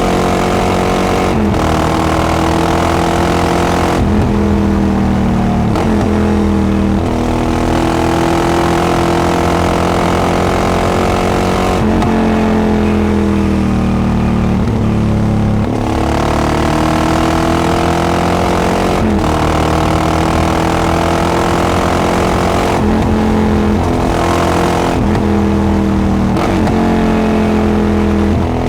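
Yamaha XT660X single-cylinder motorcycle engine through a Devil carbon exhaust, accelerating through the gears. Its pitch climbs and drops back at each gear change, over and over.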